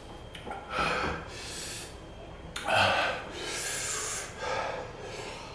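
A person breathing hard in sharp gasps and sniffs, about five noisy breaths with the loudest about three seconds in: a reaction to the burn of an extremely hot chilli-extract lollipop.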